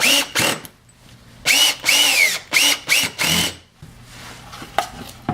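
Power drill driving screws into wood in short trigger bursts, its motor whine rising and falling with each burst: one at the start, then four or five in quick succession, followed by a couple of light knocks near the end.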